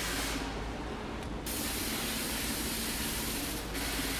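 An air-fed foam sprayer hissing steadily as concrete-remover foam is applied, over a steady low rumble from the mixer truck. The hiss thins for about a second, starting about half a second in, and dips briefly once more near the end.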